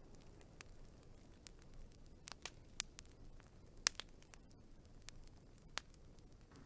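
Wood fire burning with a low steady hiss and scattered sharp crackles and pops, the loudest pop about four seconds in.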